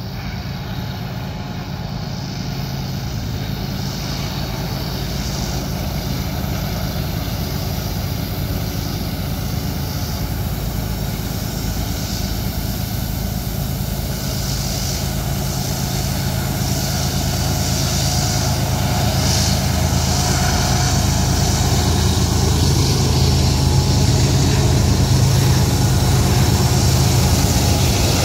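Diesel locomotives of a BNSF freight train climbing a steep mountain grade under heavy load, a steady low engine drone growing steadily louder as the train approaches.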